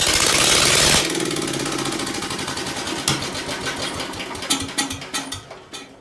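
Ford engine firing on a shot of ether and running roughly with a rapid firing beat, loudest in the first second, then weakening and turning ragged and uneven near the end. The carburetor is out of tune after a rebuild.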